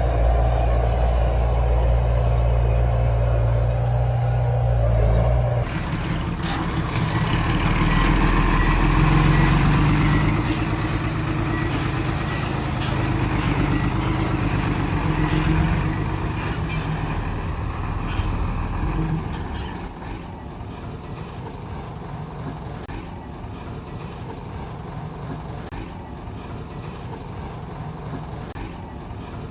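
Heavy diesel engines of earthmoving machinery running: a steady low hum gives way suddenly, about five seconds in, to an engine working under varying load. The engine is loudest around eight to ten seconds in and settles quieter about twenty seconds in.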